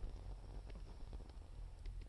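Wood fire crackling faintly, a few scattered sharp pops over a low, steady rumble.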